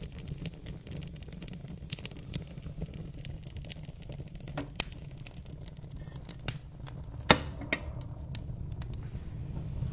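Wood fire crackling in a fireplace: irregular small pops and snaps over a steady low rumble, with one sharp louder pop about seven seconds in.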